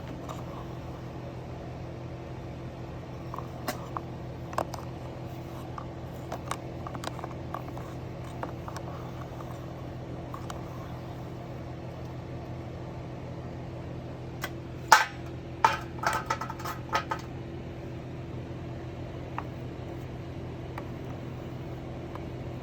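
Steady electrical hum of an electric melting furnace running, with faint scattered ticks. A quick cluster of sharp, ringing metal clinks comes about fifteen to seventeen seconds in.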